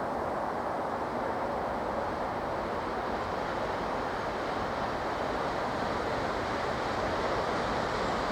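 TEP70 diesel locomotive and its passenger train approaching, a steady rumble that grows slowly louder.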